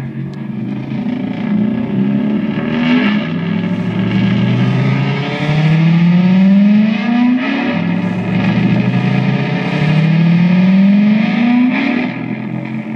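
Guitar effects pedals self-oscillating in a feedback loop: a continuous electronic noise whose pitch slides upward over and over, each rise lasting about two seconds before dropping back.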